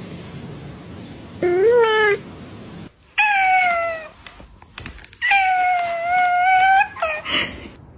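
Domestic cats meowing: a short meow about a second and a half in, a falling meow a little later, then a long drawn-out meow, and a brief call near the end.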